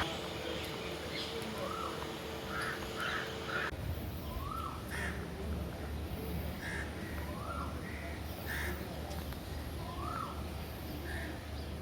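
Birds calling outdoors: short, repeated calls every second or two over an outdoor background, with a low rumble coming in after about four seconds.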